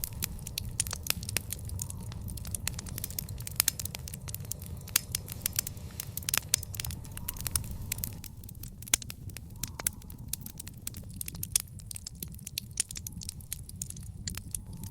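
Wood fire crackling in an outdoor fire pit: frequent sharp pops and snaps at irregular intervals over a steady low rumble of flames.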